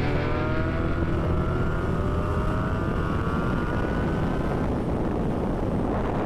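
Motorcycle engine pulling under acceleration, its pitch rising steadily for about four to five seconds before levelling off into a steady running drone.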